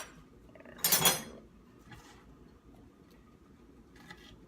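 Kitchenware clattering once, briefly, about a second in, followed by a few faint ticks.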